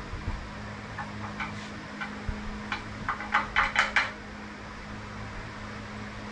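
A series of light clinks and knocks from hand work on a go-kart: a few spaced ones, then a quicker, louder cluster about three to four seconds in. A steady low hum runs underneath.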